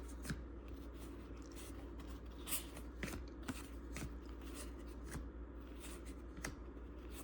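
Baseball cards being handled and flipped through one at a time: faint scattered clicks and light rustles of card stock sliding over card stock, over a low steady hum.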